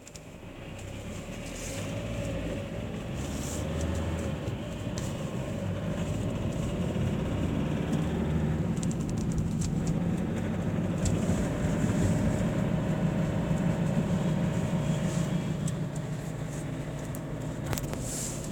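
Mazda 6 car running. Its low rumble builds over the first couple of seconds and then holds steady, with a thin steady whine above it and a few faint clicks. This is the unexplained strange noise that the car is being recorded for.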